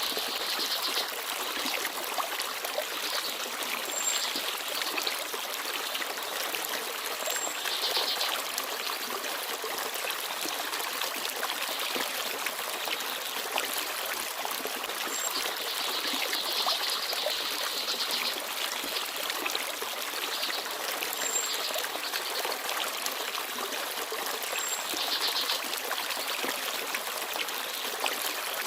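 Forest stream babbling steadily, with about five brief high-pitched chirps from small birds spread through it.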